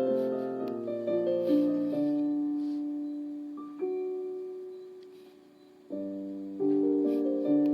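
Background piano music: slow sustained chords that ring and fade, with a long decaying chord in the middle before new chords come in near the end.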